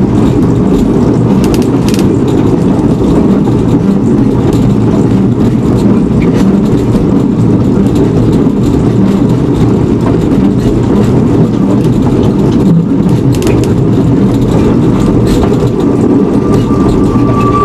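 Steady, loud rumble of a narrow-gauge train running, heard close up. A whistle's steady high note starts to come in near the end.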